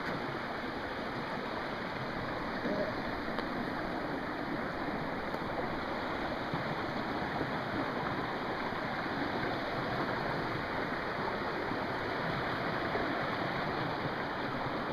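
Creek water rushing steadily over rocks, an even wash of sound.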